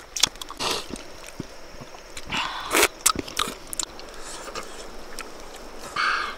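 A person eating noisily: chewing with lip smacks and short wet clicks, with a few longer smacking sounds.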